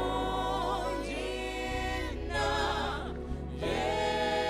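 Gospel worship music: a choir holding long sung notes over a sustained low accompaniment that shifts pitch twice.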